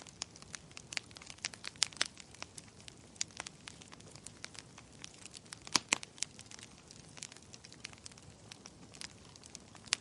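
Burning wood crackling and popping in a fireplace: irregular sharp snaps over a low steady hiss, with the loudest pops about two seconds and six seconds in.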